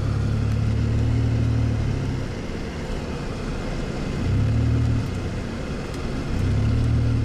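Vehicle engine running while driving, its low hum swelling and easing three times as the throttle opens and closes, over steady road noise.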